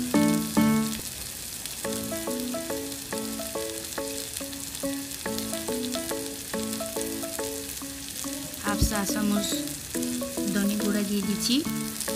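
Sliced onions and green chillies sizzling as they fry in oil in an aluminium pot, under background music of short, evenly repeated notes. A single knock sounds about nine seconds in.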